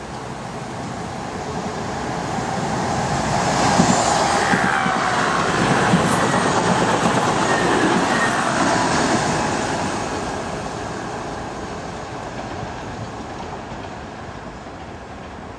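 Voyager diesel multiple unit running through the station at speed. Its engine and wheel noise builds as it approaches, peaks with a falling pitch and wheel knocks on the track as it passes close, then fades away.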